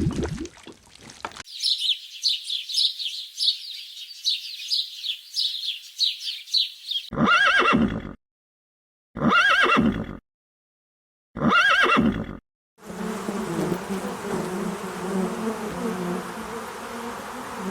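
A string of edited animal calls: rapid high chirps, then one arched call repeated three times with clean gaps, then a steady buzz with a low hum.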